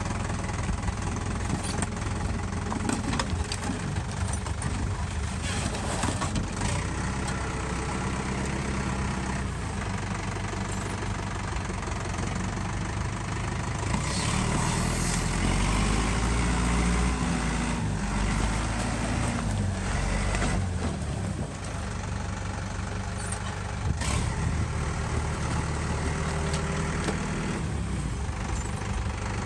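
Tractor engine running steadily, getting louder for a few seconds midway with its pitch shifting, with a few sharp knocks.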